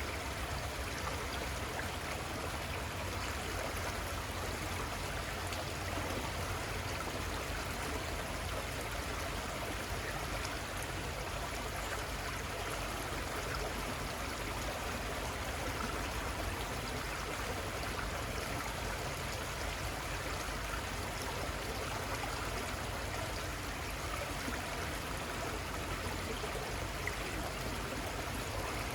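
River water flowing steadily, a continuous rush and trickle with no change over the whole stretch.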